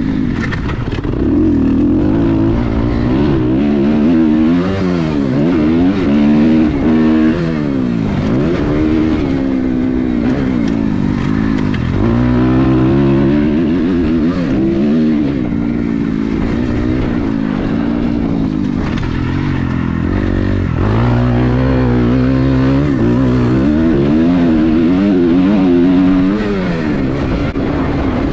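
Dirt bike engine being ridden hard, its pitch climbing and dropping back again and again as the throttle is worked through the gears.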